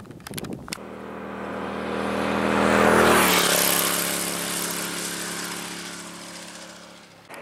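A motor vehicle driving past: its engine grows louder, drops in pitch as it passes about three seconds in, then slowly fades away.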